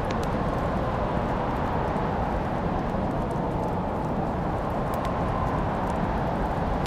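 Wood fire burning in a fireplace: scattered sharp crackles and pops over a steady low rushing background.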